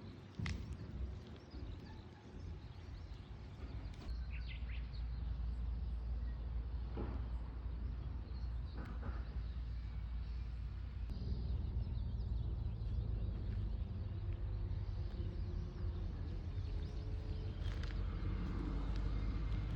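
Outdoor ambience: a steady low rumble that sets in about four seconds in, with a few faint bird chirps.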